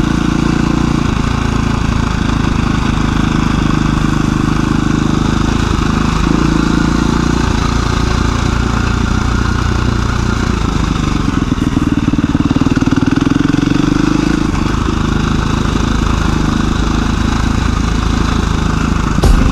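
A 2017 KTM 350 EXC-F dual sport motorcycle's single-cylinder four-stroke engine running while riding on a trail. The revs rise and fall now and then, most plainly about two-thirds of the way through.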